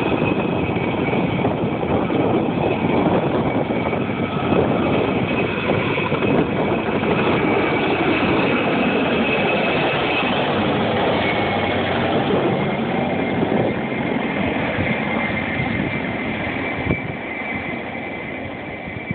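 Helicopter taking off: steady rotor and engine noise with a high whine, fading gradually over the last few seconds as it moves away.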